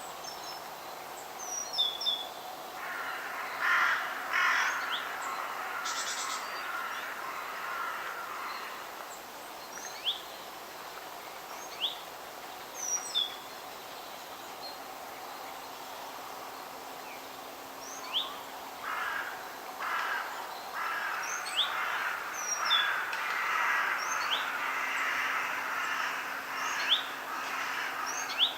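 Forest birds calling over a steady faint background hiss: short scattered chirps throughout, with two longer, denser stretches of calls, one a few seconds in and one from about two-thirds of the way through to near the end.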